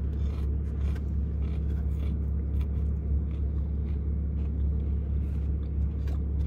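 Steady low rumble inside a parked car's cabin with the engine idling, with light scraping and rustling over it.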